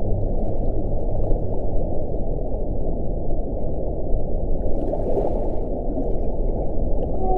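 Wind blowing with a steady low rush, and a brief stronger gust with a higher hiss about five seconds in.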